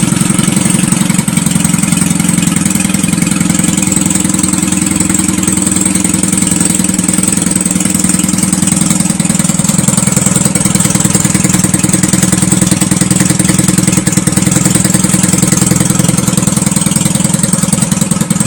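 WMI Bobtail 125 motorcycle engine running steadily at idle through an open exhaust with no muffler, giving a loud, even pulsing.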